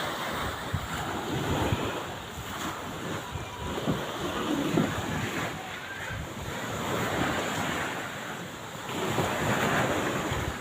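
Wind buffeting the microphone over the wash of waves, in uneven gusts.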